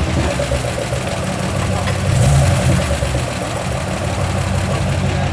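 Car engine running steadily, heard from inside the car while driving, with a slight swell in loudness about two seconds in.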